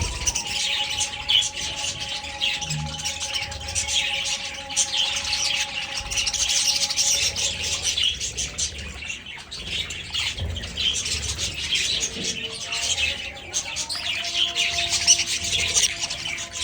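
A flock of budgerigars chattering and chirping continuously, many birds calling at once in a dense, unbroken noise.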